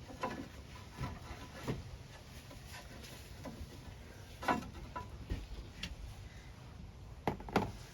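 Scattered light clicks and taps of small parts and hand tools being handled while the snowblower's plastic carburetor is taken apart, with two sharper clicks near the end.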